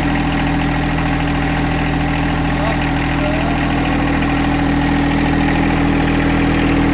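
Tractor engine running steadily at a low, even speed, a constant drone.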